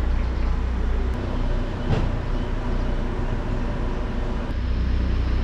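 Car engine idling: a steady low rumble, with a brief knock about two seconds in.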